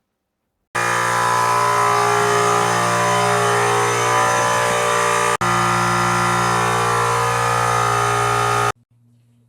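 A loud, steady machine running at constant speed, starting and stopping abruptly, with a brief break about five seconds in.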